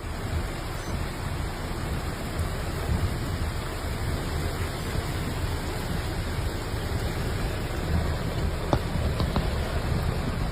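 Heavy rain falling, a steady dense hiss with a couple of faint ticks near the end.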